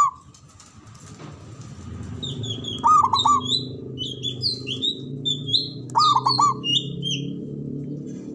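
Zebra dove (perkutut) cooing in short phrases of three or four quick ringing notes, right at the start, about three seconds in and again about six seconds in. Between the phrases another small bird chirps busily in high notes, over a low steady hum.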